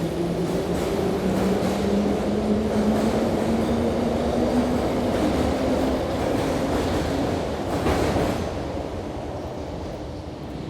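London Underground train running, its traction motor whine rising slowly in pitch as it picks up speed over the rumble of wheels on track. About eight seconds in there is a brief louder rush, then the train noise slowly fades.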